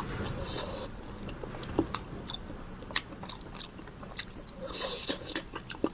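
A person eating close to the microphone: biting and chewing with scattered sharp crunchy clicks and wet mouth noises.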